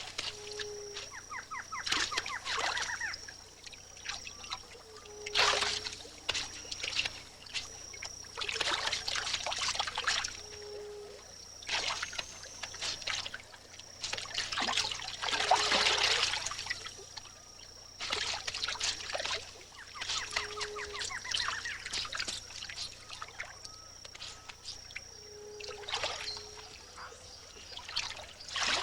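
Water splashing and dribbling in irregular bursts as a caiman feeds on fish in shallow water, the biggest splash about halfway through. Beneath it runs a steady thin high-pitched tone.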